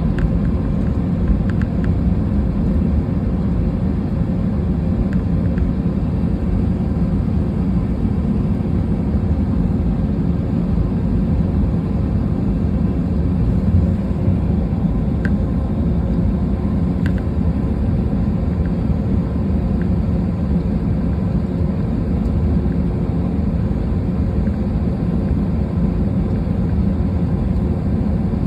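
Steady low rumble of an Airbus A320's engines and airflow heard inside the passenger cabin, with a faint hum and a few light ticks.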